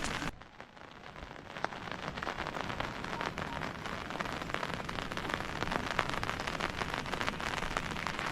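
Rain falling steadily, with many separate drop impacts ticking through the hiss. It starts quiet just after a sudden cut, then swells up over the next couple of seconds and holds.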